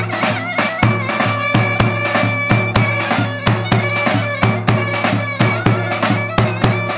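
Turkish folk dance music: a reedy wind instrument plays an ornamented melody with long held notes over a steady drum beat of about three strokes a second.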